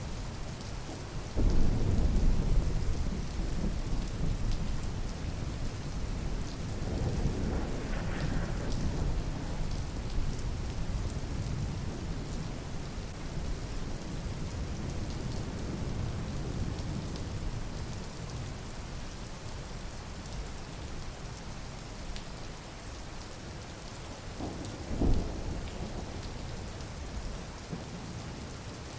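Steady rain with thunder: a loud rumble about a second and a half in that fades slowly over several seconds, another swell of rumbling a few seconds later, and a shorter clap near the end.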